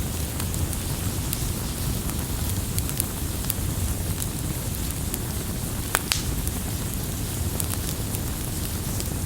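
Campfire burning: a steady low rumble of flames with scattered sharp crackles and pops, one louder pop about six seconds in.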